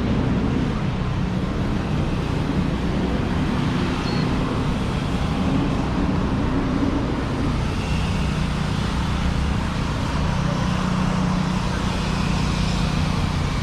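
Steady street traffic mixed with wind buffeting the camera microphone, a low rumble that runs without a break.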